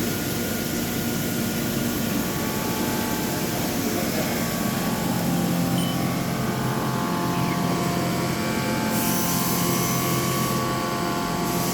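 CNC milling machine boring out a pocket on a ramping toolpath: a steady machining hum with several held tones that grow stronger about halfway through, and a short burst of hiss about three-quarters of the way in.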